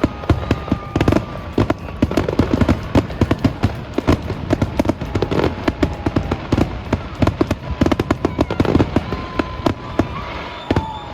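Fireworks going off in a dense barrage: many sharp cracks and bangs, several a second, with thin whistles gliding through them. The bangs thin out near the end.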